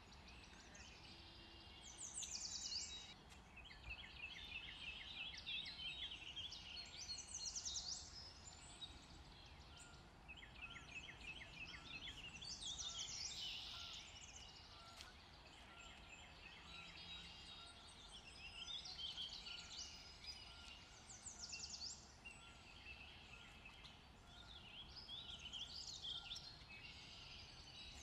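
Birds calling in the background: repeated short chirps, rapid trills and quick falling whistles, coming and going every few seconds over a faint steady hiss.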